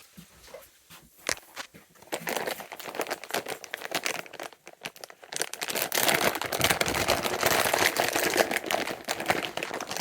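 Bag of peanuts rustling and crinkling as a hand digs through it, starting about two seconds in and growing louder for the second half.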